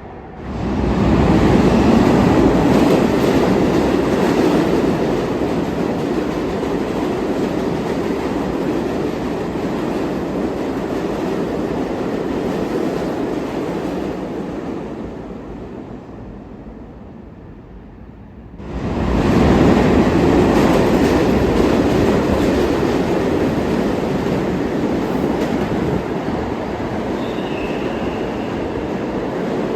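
New York City subway trains running through a station, a loud steady rumble with wheel clatter. The first train starts abruptly about half a second in and fades away after about 15 seconds; a second train starts just as abruptly about 19 seconds in and runs on.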